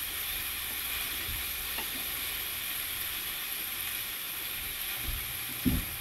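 Chunks of stingray meat frying in butter in a hot pan, a steady sizzle, as the pieces are being turned over with tongs. A brief knock sounds near the end.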